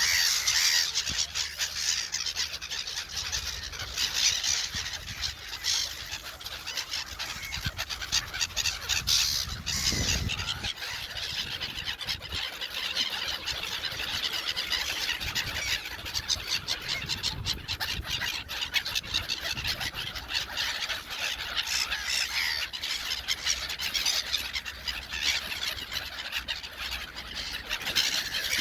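A flock of gulls calling over one another in a constant crowd of squeals and cries, the birds squabbling over thrown bread.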